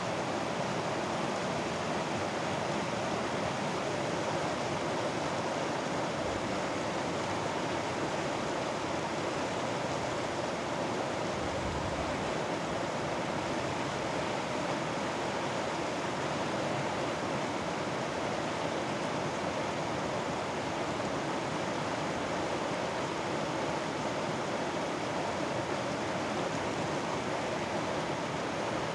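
Mountain valley stream flowing in a steady, even rush of water.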